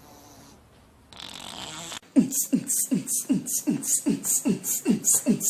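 After a quiet start, a fast percussive beat starts about two seconds in: low thumps dropping in pitch, about three a second, alternating with short hissy hits.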